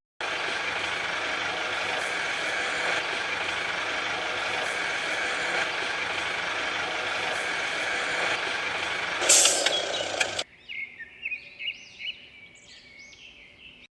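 A truck running steadily with a loud, even rushing noise, ending about nine seconds in with a sharp air-brake hiss. It then cuts abruptly to quiet with short chirps, like birds.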